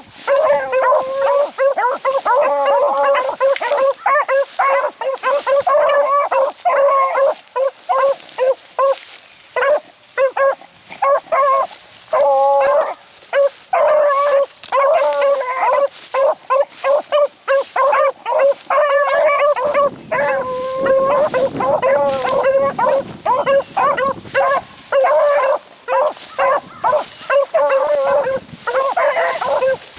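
Beagles baying without pause on a rabbit's trail, their overlapping, drawn-out howling calls running one into the next: the sound of the pack in full cry on the chase.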